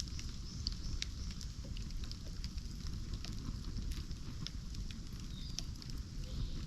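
Bonfire burning: a steady low rumble of the flames with irregular crackles and pops scattered throughout.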